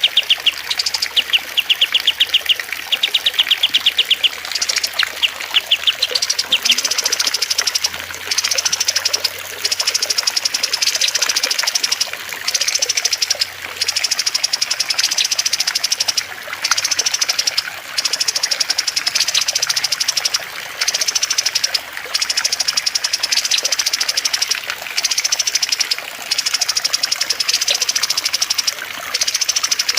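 Small songbirds singing over a steady trickle of water. For the first few seconds the song comes in rapid trilled bursts. After that, a higher-pitched phrase repeats about every one and a half to two seconds.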